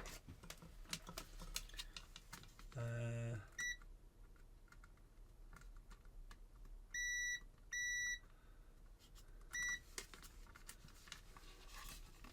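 A multimeter's continuity beeper sounding as the probes touch the on-off switch contacts. There is a short high beep, two half-second beeps a few seconds later, and another short beep near the end, each marking a closed circuit. Just before the first beep comes a brief low buzz, and small clicks of the probes are heard throughout.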